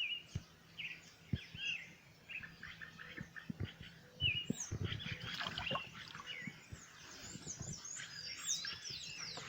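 Several birds chirping and calling, many short rising and falling notes overlapping, with scattered soft low knocks and thumps.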